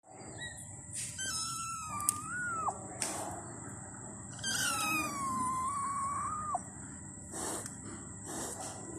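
An angry kitten hissing in short bursts and giving two long, drawn-out meows, each dropping in pitch at its end; a last pair of hisses comes near the end. A faint steady high whine runs underneath.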